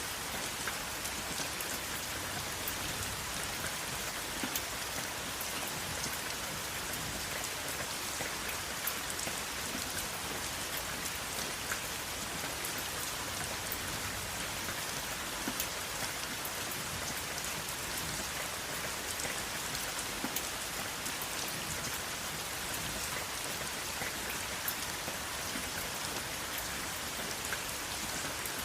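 Steady rain falling, an even hiss with many individual drops ticking sharply on a surface, without thunder.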